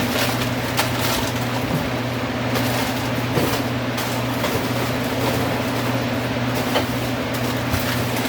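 Mushrooms and green peppers frying in a pan, a steady sizzle with small crackles throughout, over a steady low hum.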